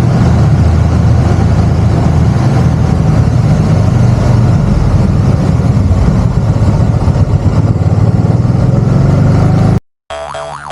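Can-Am Spyder three-wheeled motorcycle running at a steady cruise, a loud engine rumble mixed with road and wind noise. It cuts off abruptly near the end, and music starts.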